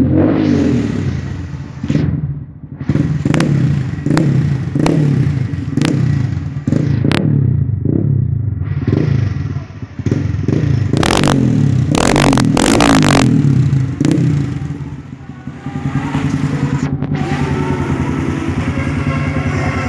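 Honda MSX 125's single-cylinder engine through an aftermarket Super K dual exhaust, revved repeatedly in short blips with sharp cracks from the exhaust as the throttle closes. It drops back and settles to a steady idle about sixteen seconds in.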